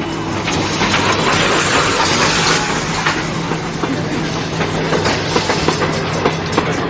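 Kiddie choo-choo train ride in a mall running: a steady low hum under a dense, continuous rattle and clatter of the cars.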